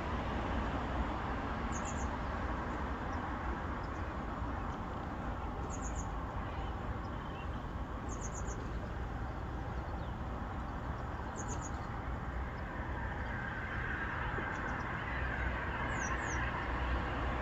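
A small bird chirping high and short, two or three quick notes at a time, every few seconds, over a steady background rumble.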